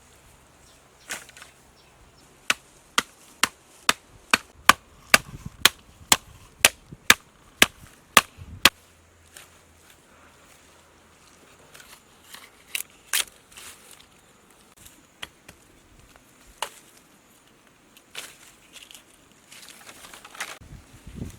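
Chopping with a bladed tool: a run of about fourteen sharp strikes, roughly two a second, then a few scattered strikes after a pause.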